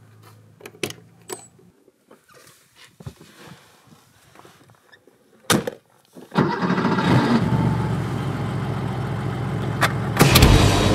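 A few clicks and a sharp knock, then about six seconds in a classic Porsche 911's air-cooled flat-six starts and settles into a steady idle. It is revved briefly near the end.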